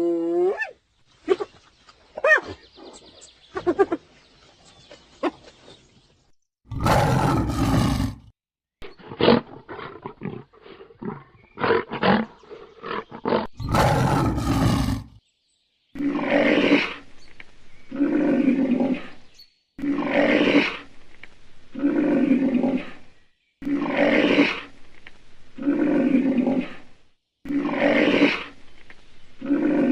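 A sequence of wild animal calls: a few short pitched calls, two loud harsh blasts with a run of sharp clicks between them, then, over the second half, a regular series of roars about every two seconds.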